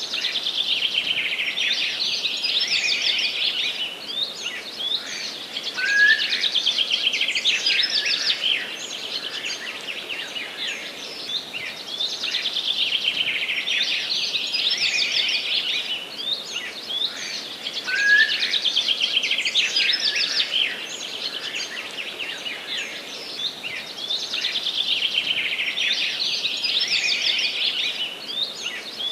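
Several songbirds singing together in a forest, a dense chorus of rapid trills and chirps that swells and fades every few seconds over a faint steady hiss, with a short rising whistle twice.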